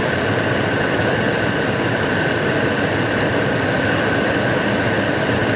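2006 Dodge Dakota's 3.7-litre V6 idling steadily under the open hood, with a steady high whine over it. The engine has a slight random misfire that the mechanic calls minimal.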